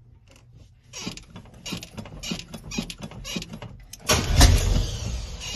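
A truck's starter cranking the engine without it catching: a run of clicks and rattles, then about four seconds in a louder stretch of the engine being turned over.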